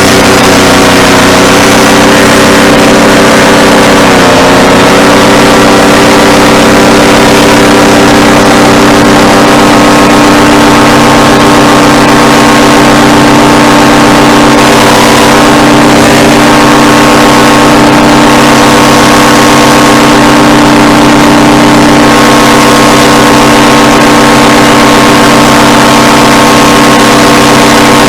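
Paramotor engine and propeller running hard and steady, with a brief dip in pitch about four seconds in before it comes back up.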